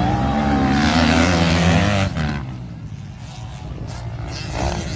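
Racing motorcycles passing at speed, engines revving with pitch that glides up and down. The sound drops off sharply a little over two seconds in as they move away.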